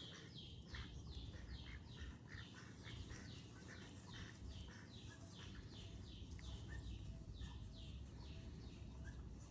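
A bird calling in a long, even series of short, high chirps that slide downward, about two to three a second, over a faint low rumble.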